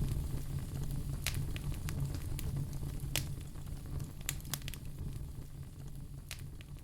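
Wood fire crackling in a fireplace: scattered sharp pops and snaps over a low steady rumble, the whole gradually fading.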